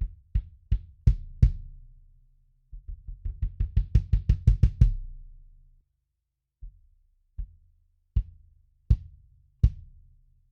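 22-inch kick drum with an Evans EMAD2 head, muffled by its external foam ring and a pillow inside, struck by the pedal and heard through a mic outside the drum: five hits, then a fast run of about sixteen getting louder, a pause, and five more spaced hits, each a short, damped thud.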